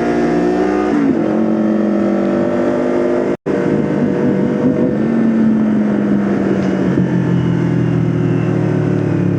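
Several motorcycle engines running while riding along together, their pitch falling and rising as the throttles change. The sound cuts out completely for a split second a little over three seconds in.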